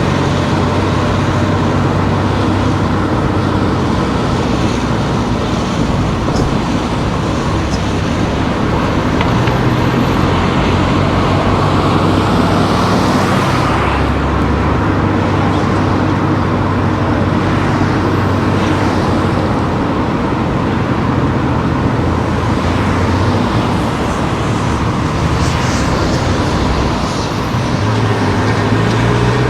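Car driving on town streets: a steady hum of engine and tyre noise, with the engine note shifting lower about halfway through and rising again near the end.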